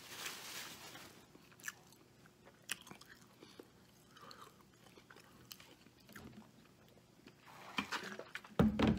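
A person chewing a mouthful of bacon cheeseburger close to the microphone, with faint, scattered wet mouth clicks. Near the end come louder sounds as he drinks from a plastic bottle.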